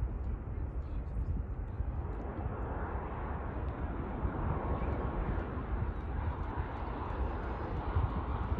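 Jet airliner engines rumbling and growing gradually louder as the aircraft approaches, with low buffeting, typical of wind on the microphone, underneath.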